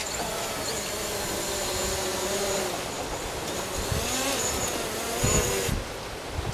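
DJI Mavic Pro quadcopter flying, its propellers giving a high steady whine with lower tones that waver up and down in pitch. A couple of low wind thuds come in the second half. The high whine drops away near the end.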